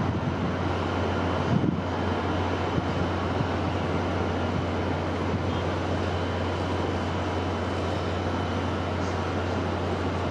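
Wind ambience: a steady dense rush with a deep low rumble, a few low gusts swelling in the first two seconds, then even.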